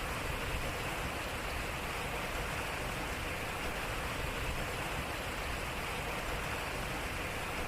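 Water running steadily over a turning water wheel, an even rushing and splashing with no breaks.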